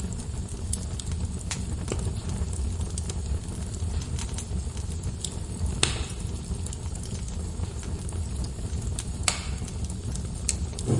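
Log fire burning in a fireplace: a steady low rumble of flames with scattered crackles. Two sharper pops come about six and nine seconds in.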